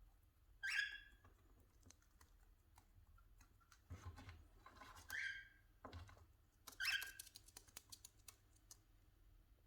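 Cockatiels squabbling: three short harsh squawks, about a second in, around five seconds and around seven seconds, over light clicking and tapping of beaks pecking at a piece of banana.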